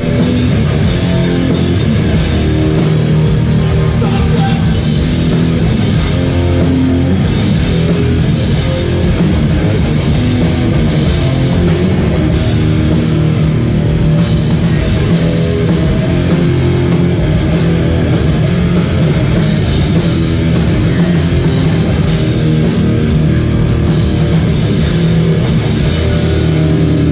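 Hardcore band playing live at full volume: distorted electric guitars, bass and drums in a dense, steady wall of sound.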